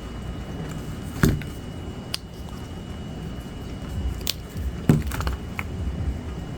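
A handful of light clicks and taps, about six, the two loudest about a second in and near five seconds, over a steady low rumble.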